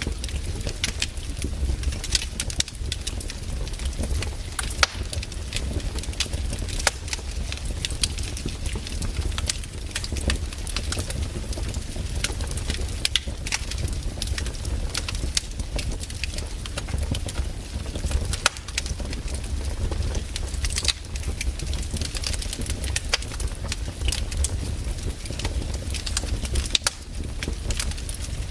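Wood campfire crackling, with frequent sharp pops and snaps from the burning logs over a steady low rumble.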